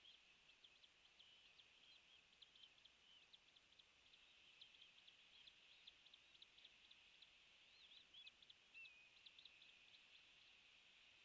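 Faint, rapid high-pitched bird chirps with a few short gliding notes, continuing throughout over a low steady hiss.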